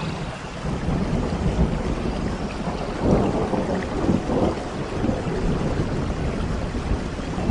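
Steady rain with rolling thunder. The low rumble swells in within the first second and is loudest around three to four seconds in.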